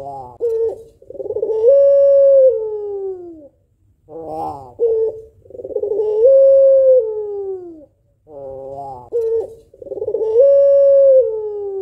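Female white puter pelung, a Barbary dove, cooing about every four seconds. Each call is a short broken coo followed by a long drawn-out coo that rises, holds steady and then slides down in pitch.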